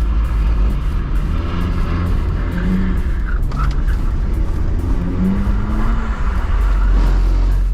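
BMW E46 320i's M54B22 straight-six engine revving hard, its note rising and falling several times as the car is driven through a drift run, over a heavy low rumble.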